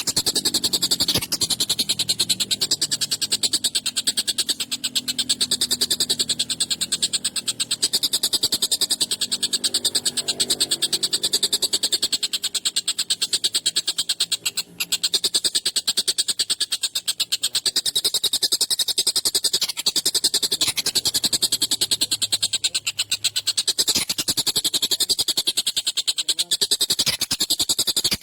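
Tengkek buto kingfisher calling in a fast, unbroken rattling chatter, high-pitched and harsh, with only short breaks.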